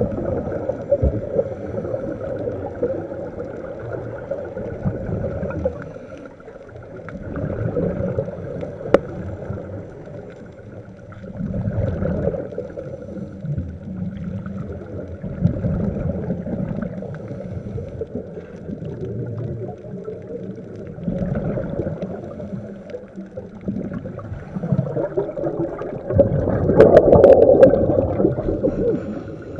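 Underwater sound of a scuba diver breathing through a regulator: muffled gurgling bubble bursts from the exhalations swell and fade every few seconds, the loudest near the end.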